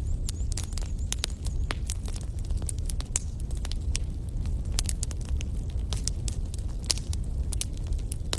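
Campfire burning, with irregular sharp crackles and snaps over a steady low rumble of the flames.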